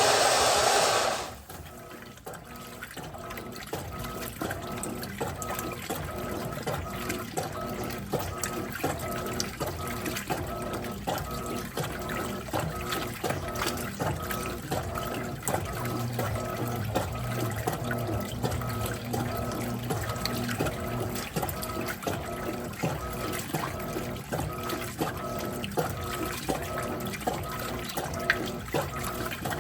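Electrolux 15 kg top-loading washing machine: water rushes in loudly and cuts off about a second in. The agitator then starts stroking back and forth in the water at roughly two strokes a second, over the steady hum of the machine's motor.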